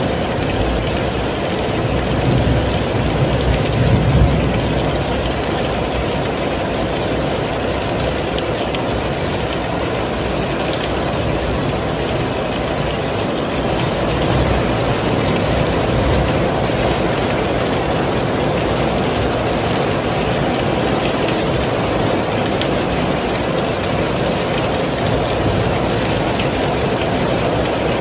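Heavy rain falling steadily: a dense, even wash with a deep low rumble underneath, which swells briefly a few seconds in.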